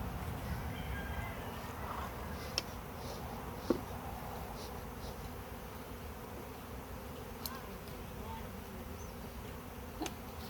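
A mass of honeybees from an opened wild colony buzzing steadily, a low continuous hum, with a few brief sharp clicks from handling.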